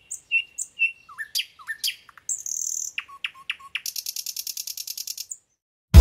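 Bird song: a few short, clear chirps, then quick downward-sweeping whistled notes and a fast, high, buzzy trill that stops shortly before the end.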